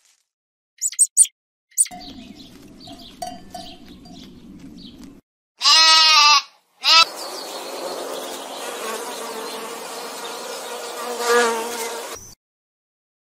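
A sheep bleats once, loudly, about six seconds in. Then honeybees buzz steadily at a hive entrance for about five seconds, the buzz swelling briefly near the end.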